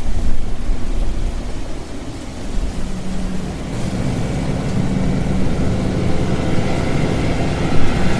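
Typhoon wind rumbling and buffeting the microphone with rain noise. About three seconds in, steady low sustained tones join in.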